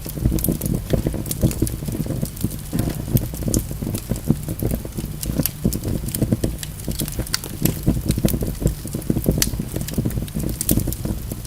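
Wood fire burning in a fireplace, logs crackling with frequent irregular sharp pops over a steady low rumble of flame.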